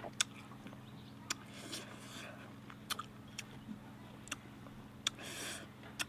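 An animal biting and chewing bamboo shoot: scattered sharp crunches and clicks, with two longer spells of gnawing about two and five seconds in.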